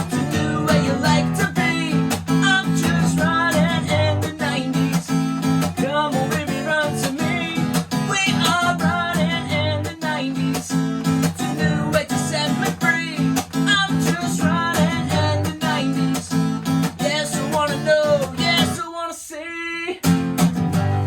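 Acoustic guitar playing a eurobeat tune, strummed chords over a steady bass line with a melody on top; the low notes drop out for about a second near the end before the playing picks up again.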